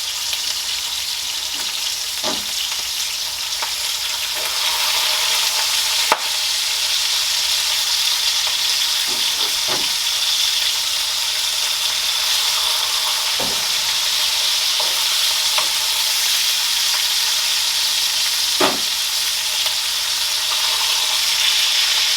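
Bacon sizzling steadily in a Wagner cast iron skillet, with occasional small pops and a sharp tick about six seconds in; the sizzle grows a little louder a few seconds in.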